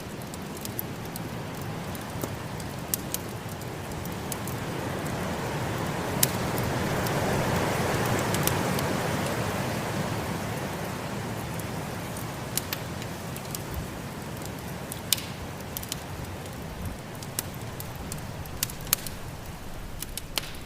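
Wood fire crackling with scattered sharp pops, over the steady rushing of a snowstorm wind that swells up to a gust around the middle and dies back down.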